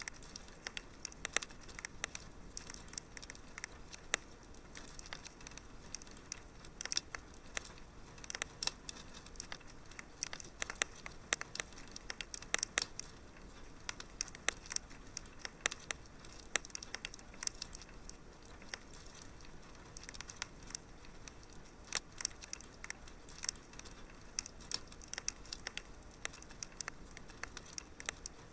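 Wood fire crackling in a fireplace: irregular small pops and snaps over a soft steady hiss.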